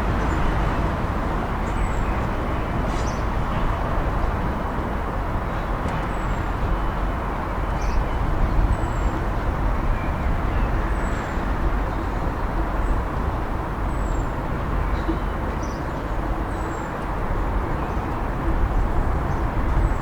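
Steady low rumble of vehicle noise, with short high chirps recurring every second or two.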